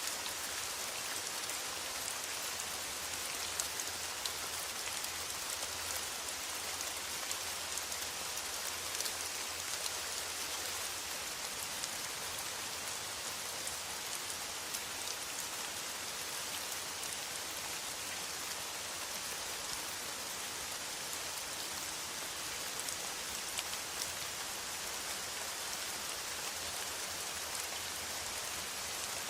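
Steady rain falling on a metal roof, an even hiss with many small scattered drop ticks and no change in intensity.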